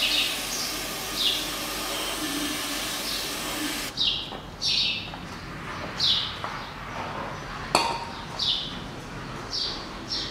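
A small bird repeats a short, falling chirp about once a second. About three quarters of the way through there is a single sharp metallic clink.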